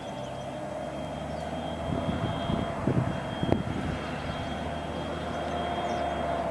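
Automated side-load garbage truck running, its diesel engine droning with a steady hydraulic whine. In the middle comes a burst of knocks and clatter as the lift arm works a cart, with one sharp bang about three and a half seconds in.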